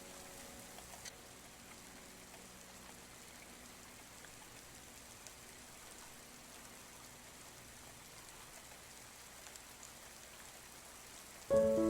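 Steady rain heard from inside a house: a soft, even hiss with scattered drop ticks. The last piano notes die away in the first seconds, and a piano comes back in just before the end.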